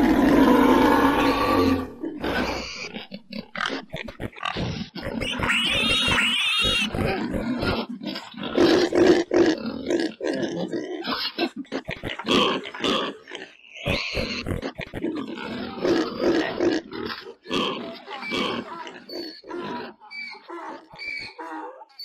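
A bull bellowing for about the first two seconds, then domestic pigs grunting in a run of short, overlapping calls, with a few high squeals among them.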